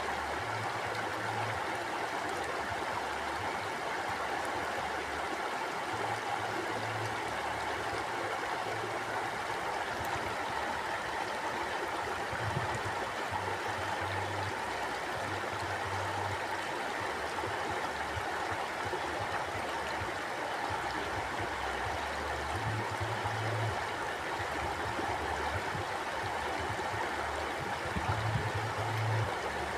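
A river flowing steadily, an even rush of water, with a low rumble that comes and goes underneath.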